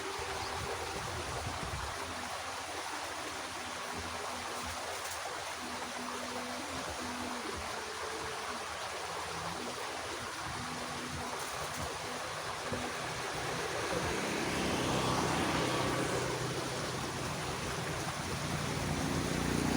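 Water running along a small irrigation ditch: a steady rushing that grows louder in the last few seconds.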